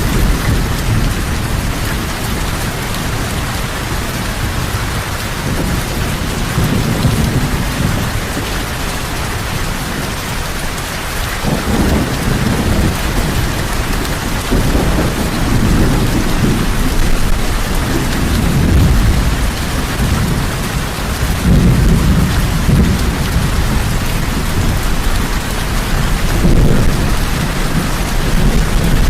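Heavy rain falling steadily, with thunder rumbling in low, rolling swells through the second half.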